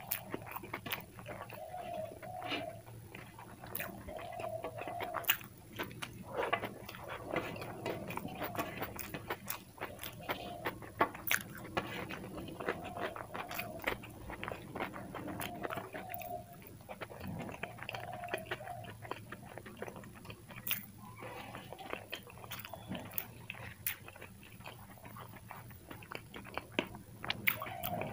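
A person chewing food by mouth, with many small wet clicks and smacks of the lips and tongue.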